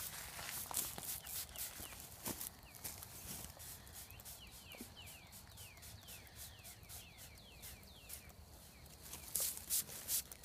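Several quick squirts from a hand sprayer near the end, wetting down a package of bees to calm them and keep them from flying. Rustling and clicks come before them, and a bird repeats short falling chirps, a few a second, in the background.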